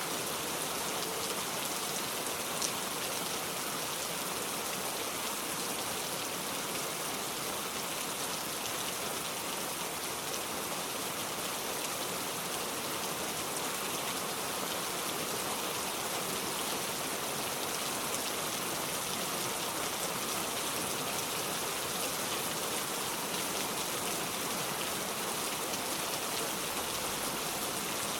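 Steady rain falling, an even hiss of many drops hitting a surface, with no change in strength.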